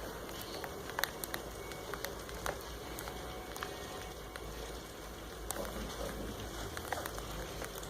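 Thunderstorm ambience: a faint, steady low rumble with scattered light ticks and crackles, and no distinct thunderclap.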